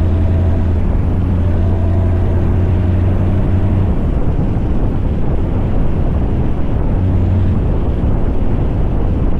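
Scania truck's V8 diesel engine running steadily: a low, even drone.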